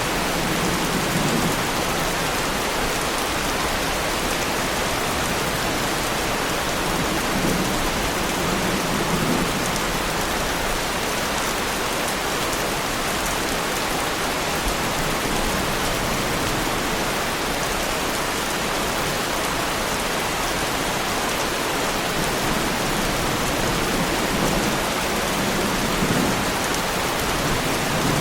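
Heavy rain falling steadily on the body of a Lamborghini Huracán sports car, a dense unbroken patter of drops on the car's panels.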